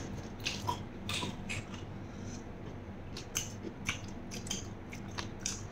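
Close-up chewing of a mouthful of raw beef koi with blood, a scattered run of short wet mouth clicks and smacks.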